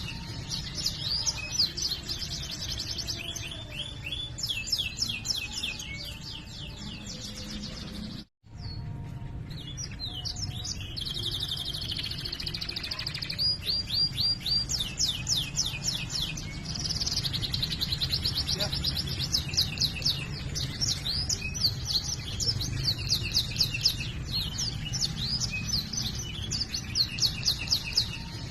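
Domestic canary singing without pause: fast trills of rapidly repeated notes, rolling warbles and chirps. The song cuts out for an instant about eight seconds in.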